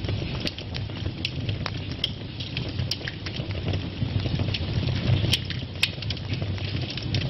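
Fire burning in a fireplace: a steady low rumble of the flames with frequent irregular crackles and sharp pops.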